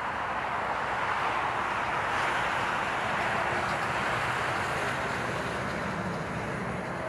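Jet airliner engines passing, a broad rushing roar that swells to its loudest about two to three seconds in and then slowly fades.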